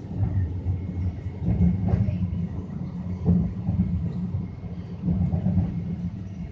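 Alstom Citadis Spirit light-rail car of the O-Train Confederation Line running between stations, heard from inside the car: a steady low rumble from the wheels on the rails, with a faint steady high whine over it.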